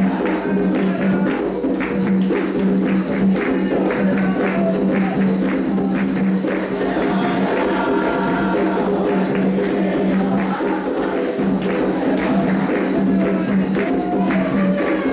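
Candomblé ritual music: atabaque hand drums and other percussion playing a steady, fast rhythm for the orixá Iansã, with voices singing a chant over it.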